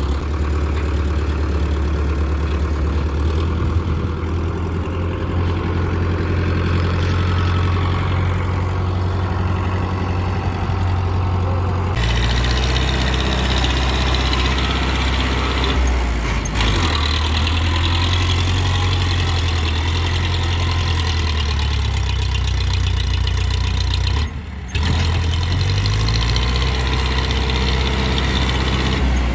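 Powertrac Euro 55 Next tractor's diesel engine running steadily at high revs as the tractor works in deep mud. Its note changes abruptly a few times, and the engine speed rises near the end.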